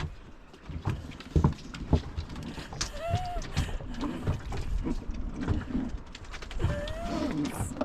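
A dog whines twice, short cries that rise and fall in pitch, amid a few sharp knocks of a small boat.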